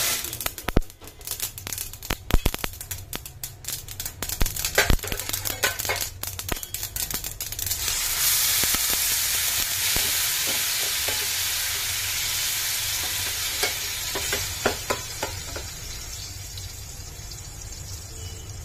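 Seeds crackling in hot oil in a stainless steel pan, a rapid scatter of sharp pops. About eight seconds in, wet green masala paste goes into the oil with a loud sizzle that slowly dies down as it is stirred and scraped with a spatula.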